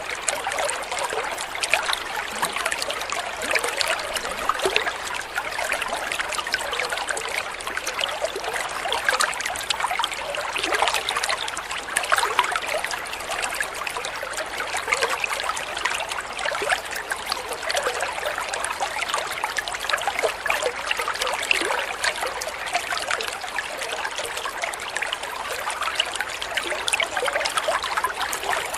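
Flowing water trickling steadily, with a dense, continuous patter of small splashes.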